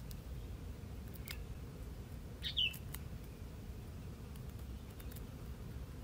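A small bird gives a single short, falling chirp about two and a half seconds in, over a steady low rumble, with a few faint clicks around it.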